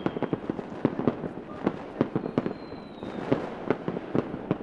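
Fireworks going off: an irregular string of sharp bangs and pops, several a second, over a constant crackle, with a faint high whistle that falls slightly about two seconds in.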